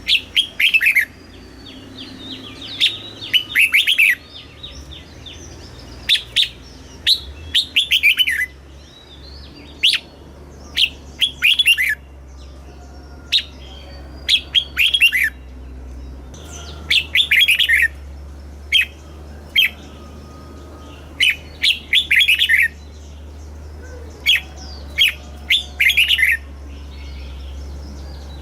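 Red-whiskered bulbul singing: short phrases of quick, falling whistled notes, repeated every second or two.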